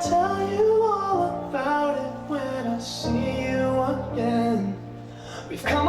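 A male singer performs a slow pop ballad, accompanying himself on piano.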